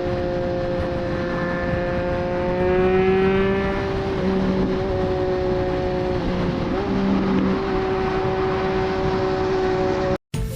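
Triumph Street Triple 765 RS inline-three engine through a Racefit Growler full exhaust system, running at a steady highway cruise with wind noise. The revs climb slightly about three seconds in, then dip and waver briefly near the middle before steadying. The sound cuts off abruptly at the very end.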